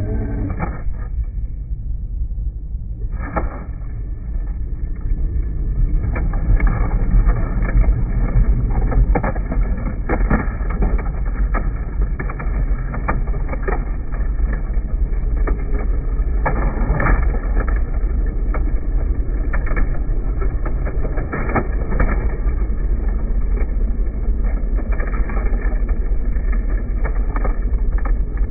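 Remote-control scale dump truck driving over rough ground: a steady low rumble from its drivetrain and tyres, with scattered knocks and clicks.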